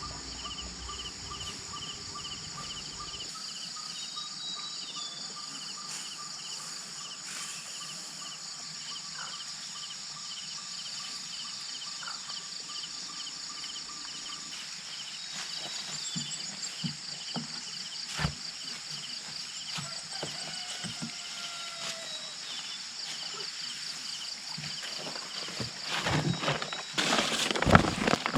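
Insects chirring steadily in a pulsing, high-pitched chorus, with a few short bird calls. Near the end come loud, irregular rustling and knocking sounds.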